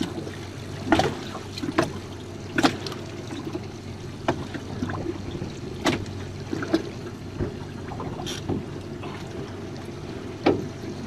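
Water lapping against the hull of a small jon boat, with sharp slaps or knocks every second or two over a steady low rumble.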